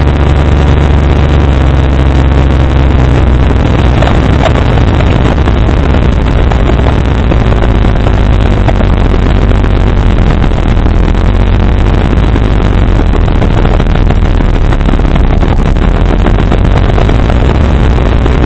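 Two JL Audio 12W6 car subwoofers playing a low bass sine sweep at very high excursion, a loud, steady deep drone. It is heavily distorted, with buzz and rattle spread far above the bass tone.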